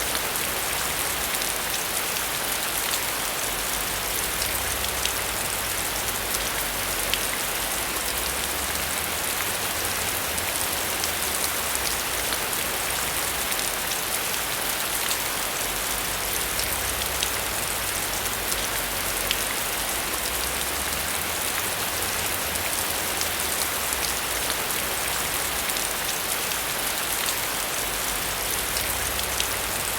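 Heavy rain falling steadily, a dense hiss of drops with fine individual patters through it, over a low rumble that swells and fades.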